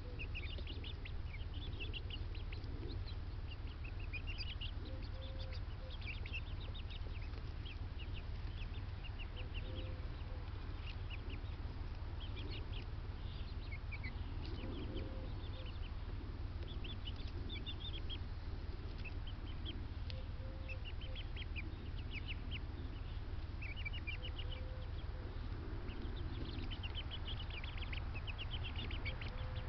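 Backyard poultry and birds calling: clusters of high chirps go on throughout, with short lower calls every few seconds, over a steady low hum.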